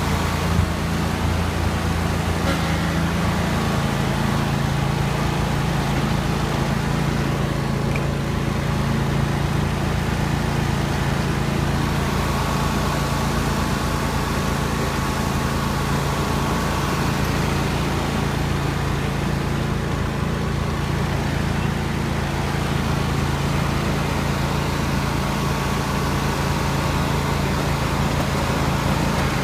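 Riding lawn mower engine running steadily as the mower is driven along. The engine note shifts slightly about four seconds in, then holds even.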